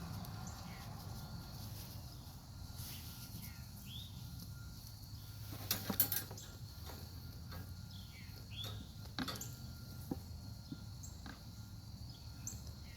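Rustling, scraping and scattered knocks of hands digging sweet potatoes and roots out of a soil-filled grow bag, loudest in a short cluster about six seconds in, with a few short chirps faintly in the background.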